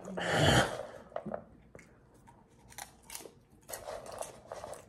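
A person chewing a mouthful of crunchy popped butter popcorn close to the microphone, with scattered short crackling crunches and quiet gaps between them. A louder, longer noisy burst comes right at the start.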